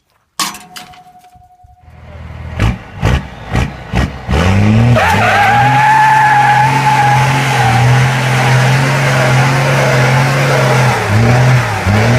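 Vehicle engine revved in several quick blips, then held at high revs with the tires squealing, as in a burnout. Near the end the revs swing up and down repeatedly. A short steady beep sounds near the start.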